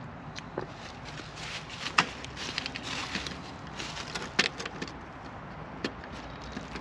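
Scattered small clicks and knocks of handling, with sharper snaps about two seconds in and about four and a half seconds in.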